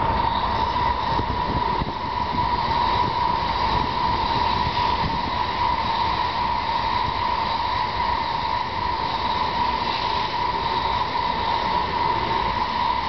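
N700 series Shinkansen bullet train passing at speed on an elevated line: a steady, loud rush of running noise with a steady high-pitched tone through it.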